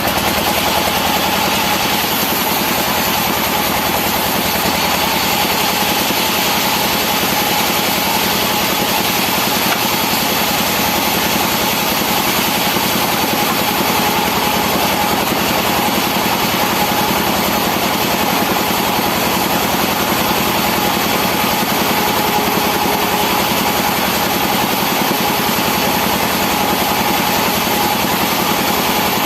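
Engine-driven sawmill machinery running steadily at constant speed, an even drone with a steady whine through it and no change in pitch or load.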